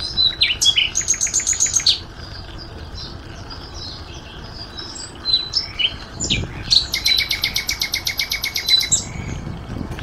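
Songbirds singing among trees: a rapid high trill in the first two seconds, a longer trill from about seven to nine seconds, and scattered short chirps between.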